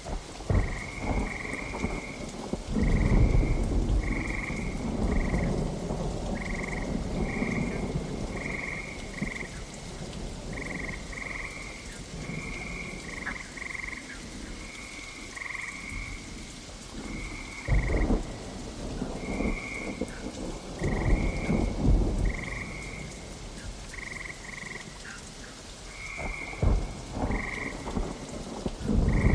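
Frogs calling in short, repeated croaks over steady rain, with rolls of thunder rumbling low a few seconds in, again past the middle, and near the end.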